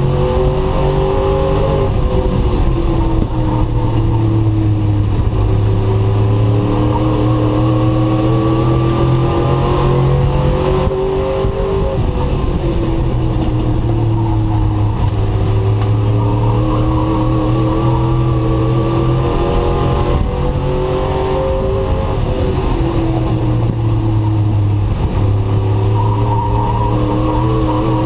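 Race truck engine heard from onboard at racing speed, its revs dipping for each turn roughly every nine seconds and climbing again down the straights.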